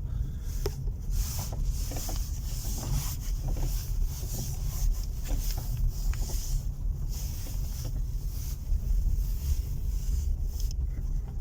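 Car driving over small bumps and uneven road, a steady low rumble of road and wind noise, with a few faint short clicks from the front suspension: the hard-to-find front-suspension knock that the owner is trying to record.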